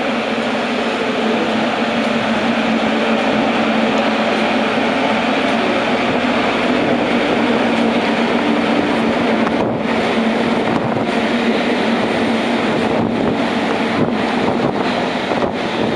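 JR Kyushu electric limited express train pulling into a station platform: a steady, loud running noise from the train, without speech.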